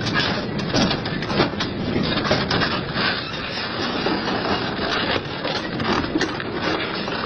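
Double-shaft industrial shredder tearing through scrap metal: a dense, continuous grinding racket broken by frequent sharp cracks and snaps as pieces are torn apart.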